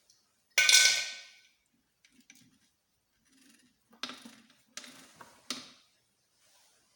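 Metal engine parts and tools handled on a workbench: one loud ringing clang about half a second in, then three sharper knocks a few seconds later.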